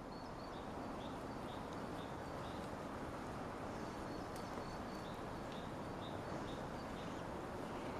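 Small birds calling in a winter forest: short, high chirps repeated many times over a steady background hiss.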